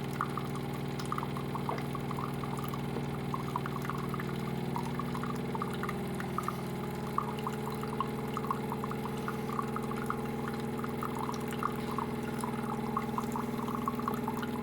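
DeLonghi coffee machine running steadily with a low hum while liquid pours and drips into a cup, with many small irregular drip ticks.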